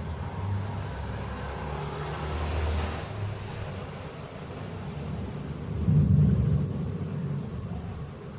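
Thunder rumbling low and continuously, swelling louder about six seconds in.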